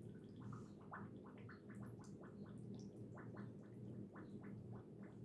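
Faint gurgling and bubbling of thick sugar-vinegar brine being poured into a jar of sliced cucumbers, a quick irregular run of small blips as the liquid works down between the slices, over a low steady hum.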